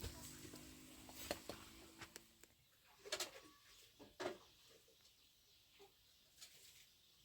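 Faint sizzling from cooking dies away over the first couple of seconds, leaving near silence broken by two short sounds about a second apart.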